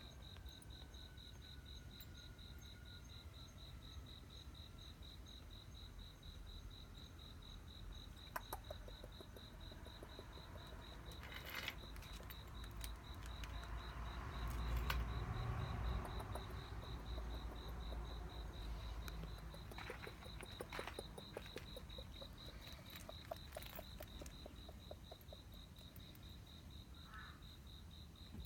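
An insect chirping in a high, rapid, even pulse, with a low rumble that swells and fades around the middle and a few faint clicks.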